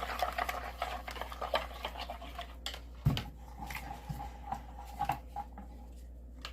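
Stirring melted soap in a cup: a utensil scraping and clicking against the container, busy at first and then sparser, with one soft knock about three seconds in.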